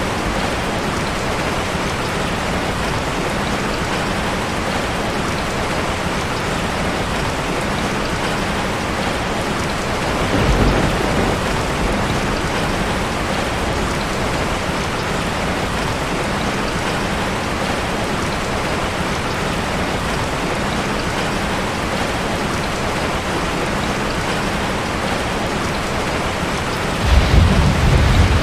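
Steady rain falling on a metal roof, an even hiss. Low rumbles of thunder swell about ten seconds in and again near the end.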